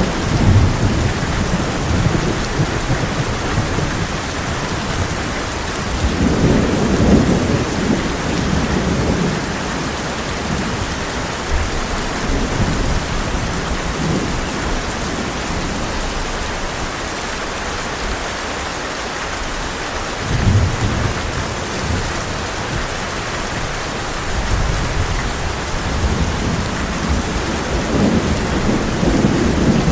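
Heavy rain pouring steadily on a tin roof, with low rolls of thunder rumbling in several times: about six seconds in, again around twenty seconds, and building near the end.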